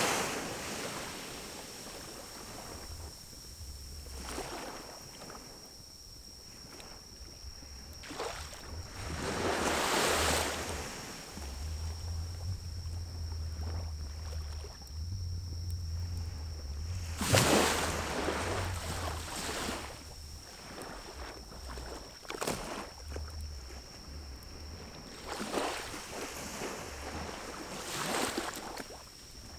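Pinecone fire burning in a small wood-burning stove, with a few faint pops, under repeated surges of rushing noise about a second long, a handful of times, and a low rumble between them.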